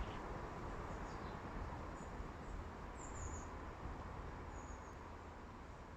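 Quiet outdoor ambience: a low rumble of wind on the microphone, with a few short, faint high chirps about a second apart in the first half.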